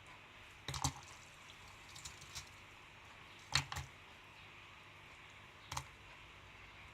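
Alder and Cape cones being dropped into a container of boiled water: a few sharp, light clicks and knocks, the loudest about a second in and again about three and a half seconds in.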